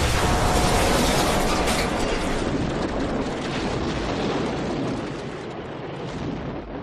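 A loud, dense rush of noise over a low rumble, fading gradually over several seconds: a wind-magic sound effect from an animated fight.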